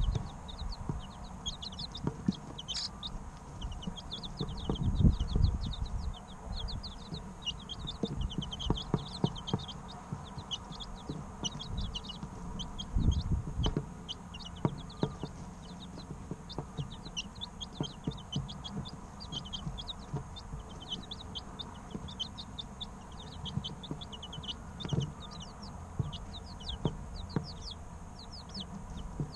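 A brood of three-week-old chicken chicks peeping continuously, many short falling cheeps overlapping. A few dull low thumps come through, the clearest about 5 and 13 seconds in.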